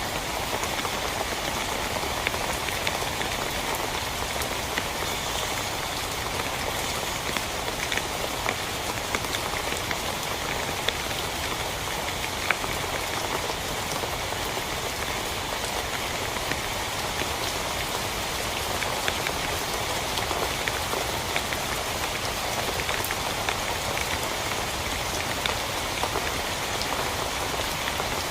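Steady heavy rain, with many small drops ticking and pattering on a tent's fabric.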